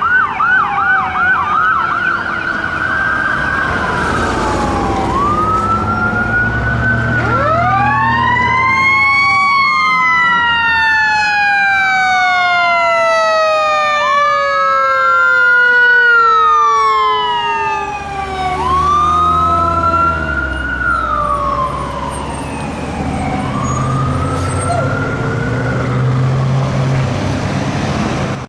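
Fire apparatus sirens: an electronic siren going from a fast yelp into a rising-and-falling wail, overlapped by a Federal Q-type mechanical siren that spins up about ten seconds in and then winds down slowly, falling in pitch over most of the rest. Heavy truck engine rumble runs underneath.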